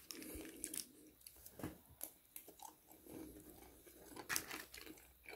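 Quiet chewing of KFC fried chicken, with a few soft clicks and scrapes of a knife and fork cutting the chicken.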